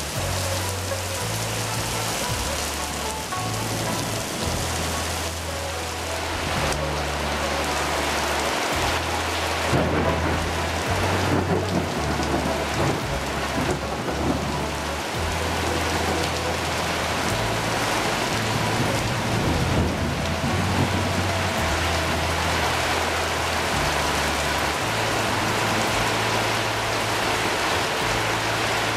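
Heavy rain pouring steadily, with thunder rumbling and the downpour growing louder through the middle. A low bass line of background music runs underneath.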